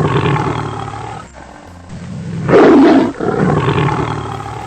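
Tiger roaring twice: the tail of one roar fades out, then a second loud roar begins about two seconds in and dies away near the end.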